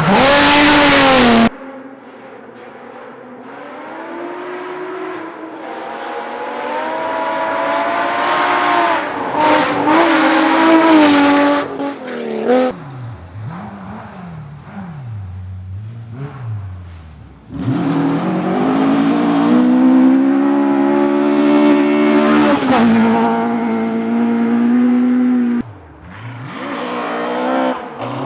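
Rally car engines at full throttle, the pitch climbing through the gears as the cars come by. The engine sound cuts out sharply and comes back several times. A loud burst of noise fills the first second or so.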